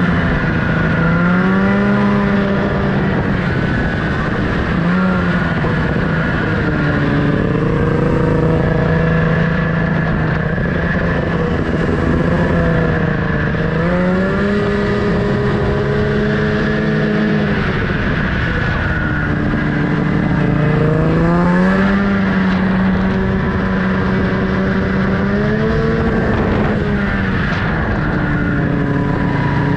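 Snowmobile engine running under throttle, its pitch rising and settling again every few seconds as the rider works the throttle.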